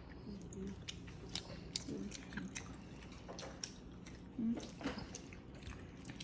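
Several people chewing soft gummy candy, with scattered small mouth clicks and smacks and a couple of brief murmurs.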